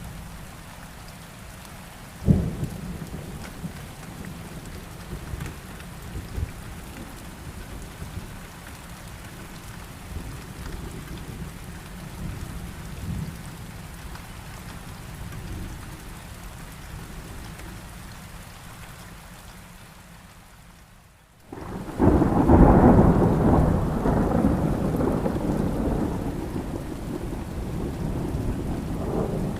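Heavy rain with thunder: a sharp thunderclap about two seconds in over steady rainfall. Near the end, after a brief dip in the sound, a long loud rumble of thunder breaks and slowly fades.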